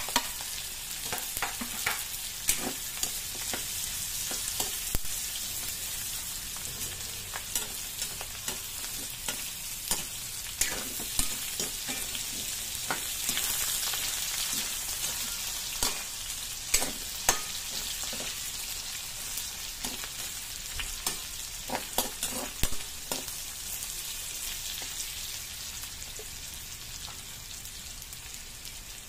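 Pork pieces frying with garlic, ginger and shallots in a steel wok: a steady sizzle, with a metal spatula clicking and scraping against the pan at irregular moments as it is stirred.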